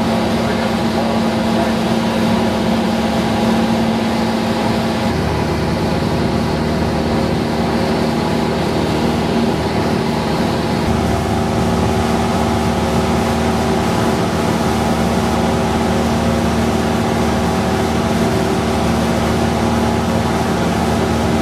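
Cessna 172's piston engine and propeller droning steadily, heard inside the cockpit. The tone changes slightly about five seconds in and again around halfway through.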